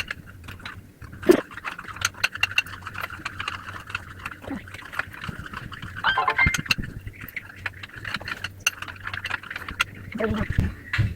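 Ice and salt rattling and clicking inside a plastic toy ice cream maker as it is churned to mix the ice cream: a rapid, uneven run of small clicks over a steady hum, with a brief voice-like sound about six seconds in.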